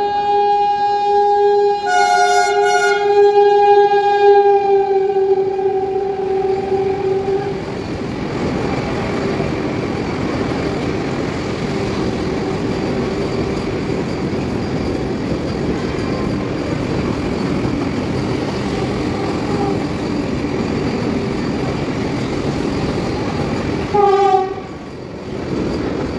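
Vande Bharat Express electric train sounding a long horn blast as it approaches, with a second pitch joining for a couple of seconds early on. The horn stops about seven seconds in. Then the coaches run past close by with a steady rumble of wheels on rail, and a short horn blast comes near the end.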